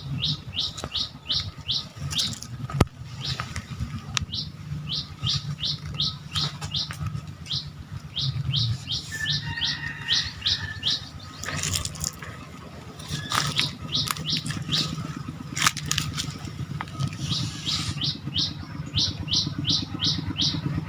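A small bird calls in quick runs of short, high notes that each fall in pitch, about four or five a second, with pauses between the runs. A low fluttering rumble and a few sharp clicks sound underneath.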